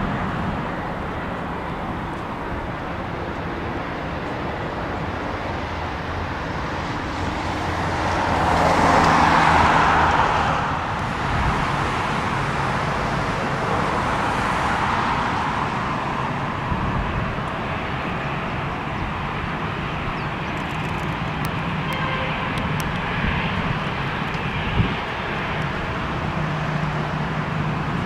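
Steady distant vehicle noise that swells for a few seconds about eight seconds in, as something passes, with a single sharp click near the end.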